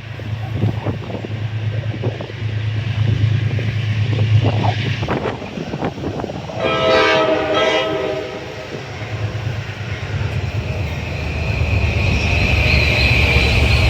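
Metro-North train horn sounding for about two seconds midway, a chord of several tones, over the rumble of a train with wind buffeting the microphone. Near the end a high, steady squeal builds as the train runs through.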